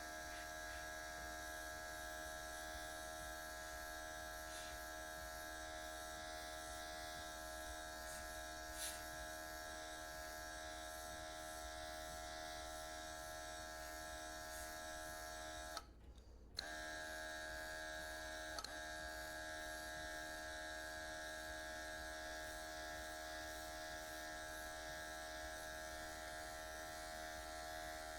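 Cordless airbrush kit's small built-in compressor running with a steady electric buzz, cutting out for about half a second partway through and then starting again.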